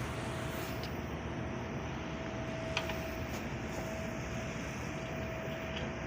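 Steady mechanical noise with a faint constant whine running through it, and two light clicks, one about a second in and one near three seconds.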